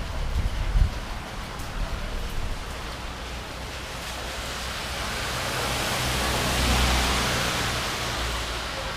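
Storm wind and rain, an even rushing noise that swells to a peak about seven seconds in and then eases. Wind buffets the microphone with low rumbling thumps near the start.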